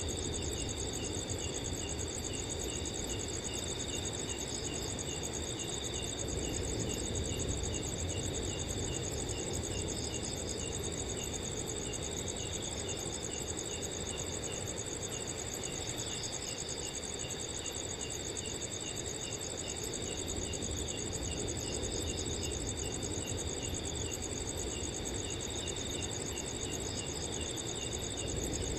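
Crickets chirping steadily, several trilling at once at different high pitches, with one chirping in short regular pulses about twice a second, over a low rush of wind.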